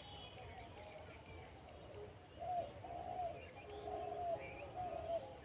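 Birds calling outdoors: a run of short cooing calls, like doves, in the second half, with faint higher chirps.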